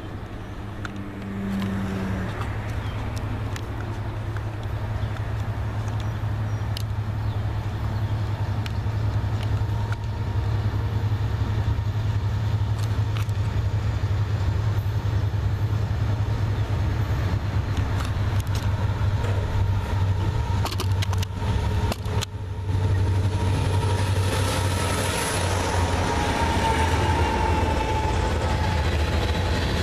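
Diesel freight locomotive approaching with a steady low engine rumble, followed by a long string of loaded tank cars rolling past, steel wheels running on the rails, with a brief dropout about 22 seconds in.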